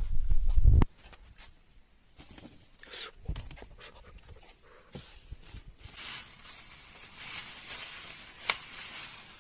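A loud low rumble with a knock in the first second as a car door is pulled open, then scattered clicks and handling noise. Near the end a plastic bag and paper tissue crinkle as they are unwrapped, with one sharp crackle.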